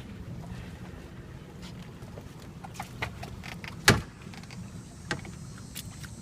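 Scattered knocks and clatters on a small boat, the loudest a sharp knock just before four seconds in, over a steady low hum.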